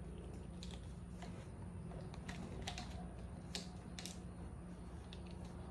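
Scattered light clicks and rattles of plastic and fabric parts being handled while fitting a lawn mower's mulch bag, over a low steady hum.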